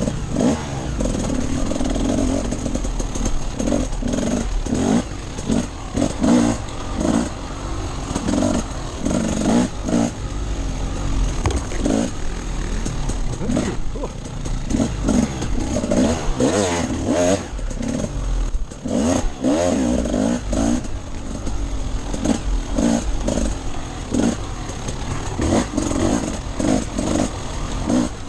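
Dirt bike engine revving up and down over and over as the rider works the throttle riding off-road.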